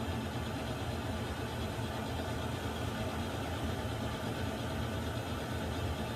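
Water heater running: a steady, even rushing noise with a low hum underneath, unchanging throughout.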